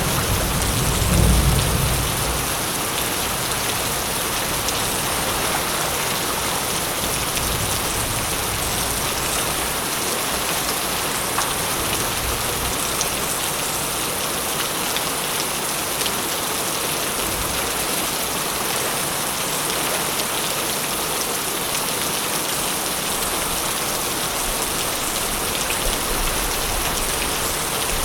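Steady, dense rain falling on a surface. A low thunder rumble dies away in the first couple of seconds.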